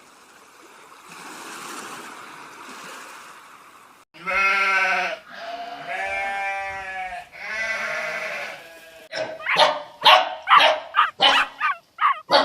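After a few seconds of low background hiss, a farm animal bleats three times, each call long and drawn out. Near the end a dog barks in a quick run of short barks, about three a second.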